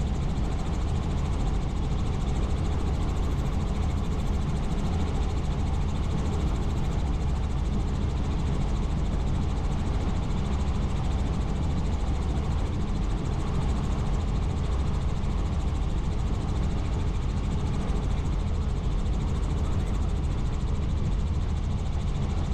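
Helicopter in flight, its rotor and engine running at a steady, unchanging drone.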